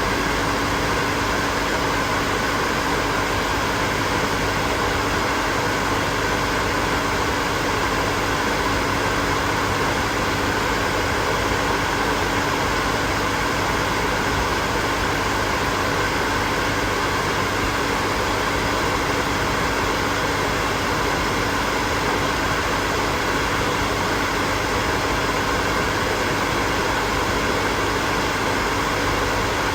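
Hair dryer running steadily: an even rush of air with a steady motor hum beneath it, unchanging throughout.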